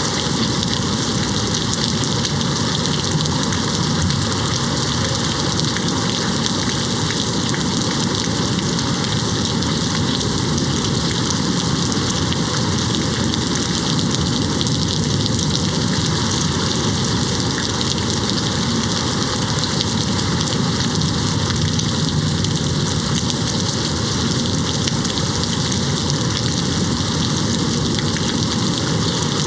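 Steady rain falling and hitting a window, an even, constant hiss with the patter of many drops and no break in intensity.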